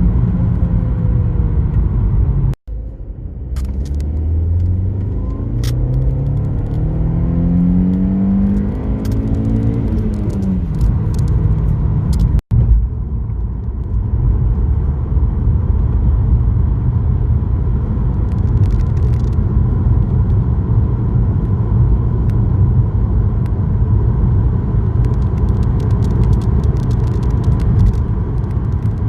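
Seat Leon Cupra Mk1's 1.8-litre turbocharged four-cylinder engine accelerating hard, its note climbing steadily for about seven seconds before dropping away. After that comes a steady drone of engine and road noise at speed.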